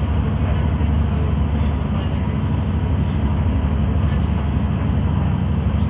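Steady rumble of a passenger train running at speed, heard from inside the carriage: wheels rolling on the rails with no distinct knocks or changes.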